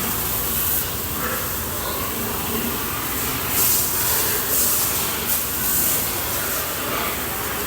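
Water spraying from a hose, a steady rushing hiss with several louder bursts of spray in the middle few seconds.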